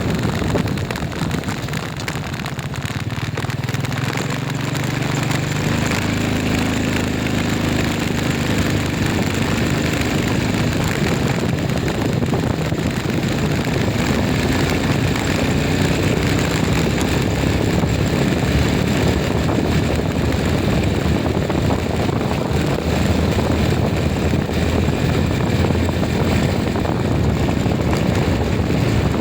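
A motor vehicle's engine running as it travels, over a steady rush of road and wind noise. Its pitch rises a few seconds in.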